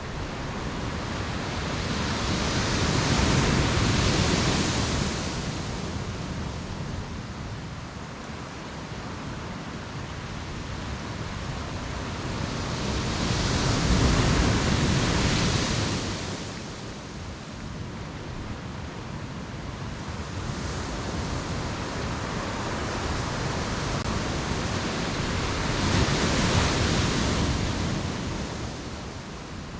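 Ocean surf on a beach: three waves break and wash in, about one every eleven or twelve seconds, each a rising then falling rush of noise over a steady background of the sea.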